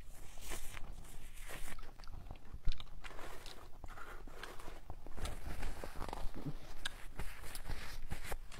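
Close-miked eating: biting and chewing with irregular crunches and clicks, and a sharp knock about three seconds in.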